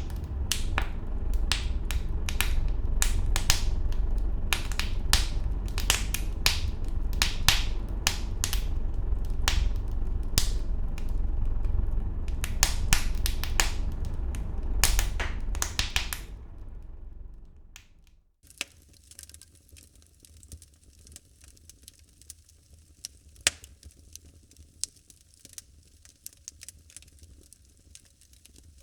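Crackling fire: frequent sharp pops and snaps over a low rumble, which fade out a little past the middle and give way to faint, scattered crackles.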